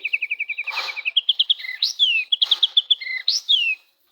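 White-rumped shama (murai batu) singing: a fast run of about a dozen repeated notes a second, then quick note strings and downward-sliding whistles, broken by a few harsh, rasping calls.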